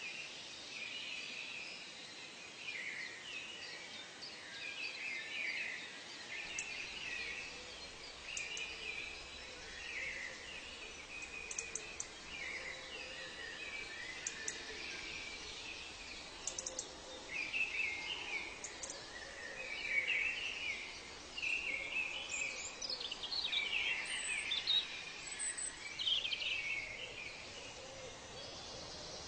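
A chorus of wild birds calling and singing, many short chirps and trills overlapping over a steady background hiss, with a louder run of falling calls in the second half.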